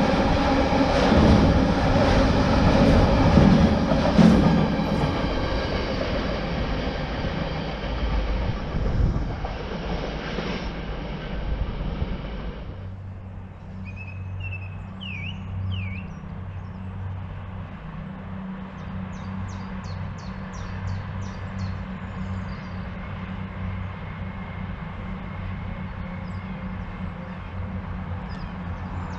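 A diesel freight train passing, its engine note and rumble loud at first and fading away. About twelve seconds in the sound cuts abruptly to a steady low hum, with a few brief bird chirps.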